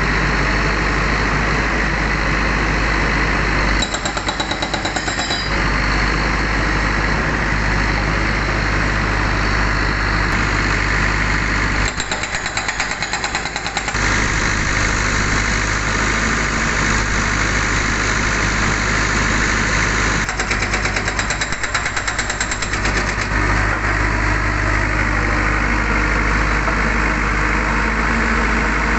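L&T Case backhoe loader's diesel engine running steadily, with three bursts of rapid hammering from its hydraulic rock breaker, each lasting about two seconds.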